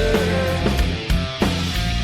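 Heavy rock band playing between chorus lines: distorted electric guitars and bass over a drum kit, with the tail of a sung note at the start.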